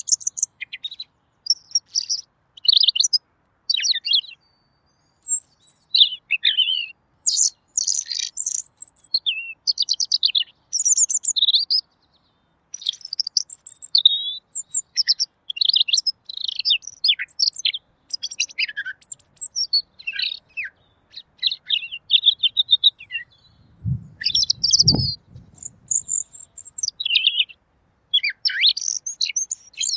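Red-billed leiothrix (Pekin robin) singing clear, rapid phrases of varied chirps and warbles, broken by short pauses. Late on, a brief low thump.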